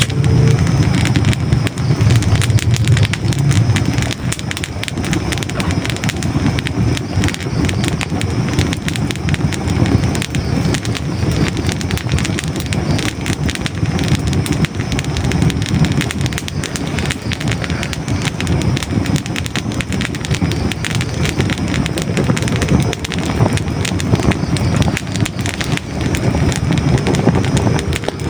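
Hardwood logs burning in a fireplace, crackling and popping densely and irregularly over a steady low rumble.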